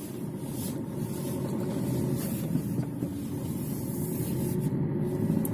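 Maruti Suzuki Vitara Brezza's DDiS 200 diesel engine and road noise as the car is driven, with a steady rumble that grows slowly louder.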